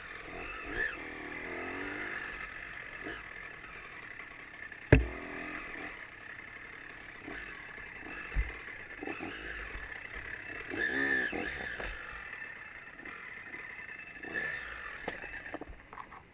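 Trail motorcycle riding, the engine's pitch rising and falling, with one loud sharp knock about five seconds in.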